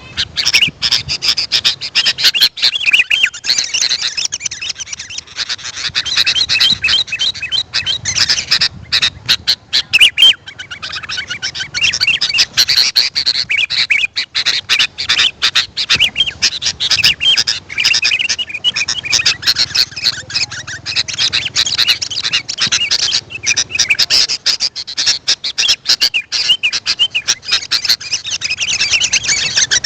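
Sooty-headed bulbuls (kutilang) chattering and singing in a dense, unbroken run of overlapping quick chirps. It is the kind of call recording played to lure wild birds.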